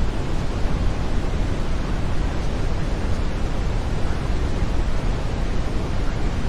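Steady brown noise: an even, unchanging hiss that is strongest in the low end.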